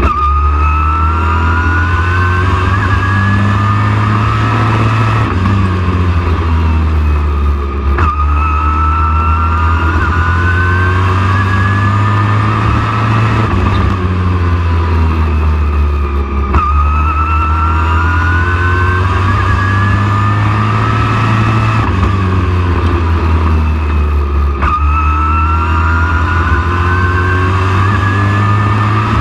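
Race truck engine at racing speed, its pitch climbing steadily and then dropping off sharply about every eight seconds: accelerating down each straight and lifting into each turn. A loud steady low rumble runs under it.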